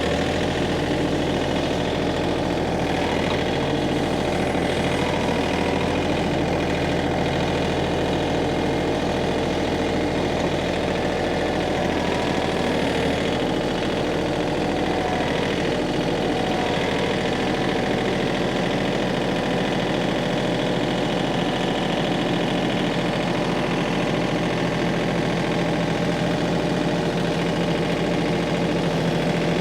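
Tractor engine running steadily, its low note shifting about halfway through as the engine speed changes.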